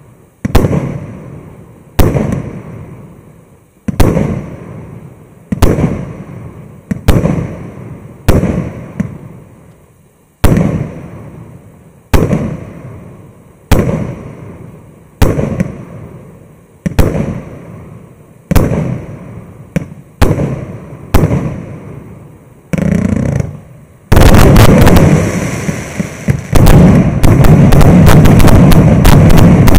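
A 600-shot, 1.2-inch consumer firework cake firing. Single loud shell bursts come about every one and a half seconds, each with a long echoing tail. About three-quarters of the way in, this changes to a dense, unbroken barrage of rapid shots.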